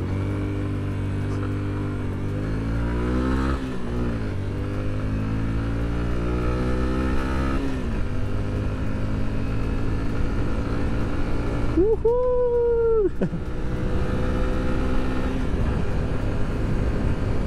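Yamaha XTZ 150's single-cylinder engine accelerating from a standstill up a slight incline. The revs climb, fall at a gear change about four seconds in and again near eight seconds, then hold nearly level, with steady wind and road noise. Around twelve seconds in, a separate short, clear tone sounds for about a second and a half.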